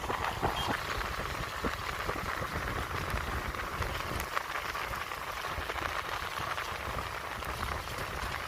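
Steady rain falling, with scattered drop ticks and wind rumbling on the microphone.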